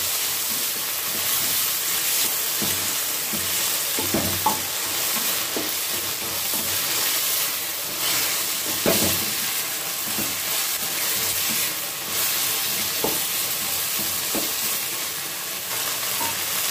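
Chopped onions, tomatoes and green chillies sizzling steadily in a steel kadai over a high flame, with a wooden spatula stirring and a few short knocks of the spatula against the pan.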